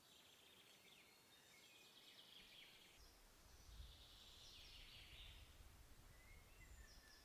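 Faint woodland birdsong: small birds chirping and trilling, with short whistled notes. A low rumble comes in about three seconds in.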